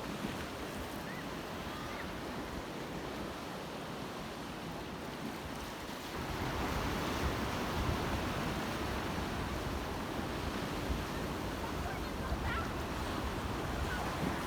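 Black Sea waves washing onto the shore, with wind buffeting the microphone. The surf grows louder about six seconds in.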